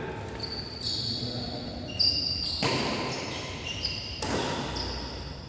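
Badminton play: several short, high-pitched squeaks of shoes on the court floor, with a sharp racket strike on the shuttlecock about two seconds in.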